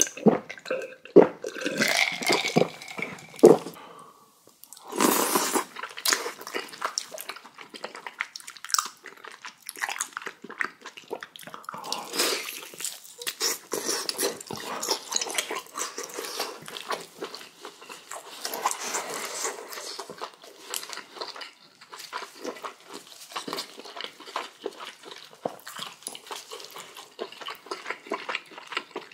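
Close-up chewing and crunching of spicy kimchi with boiled pork, a steady run of crisp, wet bites and mouth sounds.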